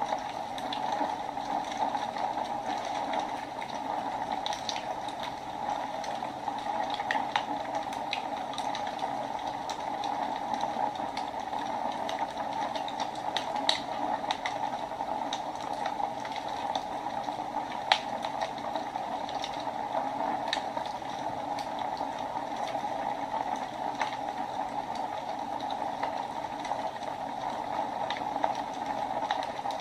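Wood fire burning in a fireplace: a steady rushing hiss with irregular crackles and pops from the burning wood, one sharper pop about two-thirds of the way through.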